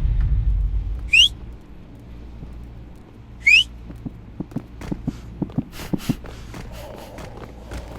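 A dog giving two short, high, rising squeaky whines about two and a half seconds apart, then a run of light clicks and taps.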